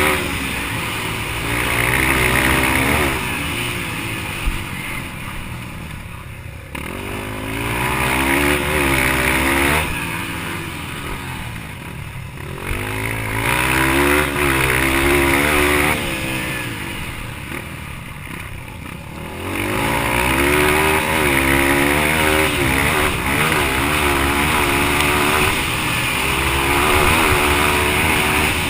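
Yamaha TT-R230 dirt bike's single-cylinder four-stroke engine under racing load: the revs climb again and again through the gears, easing off about every six seconds before building up again.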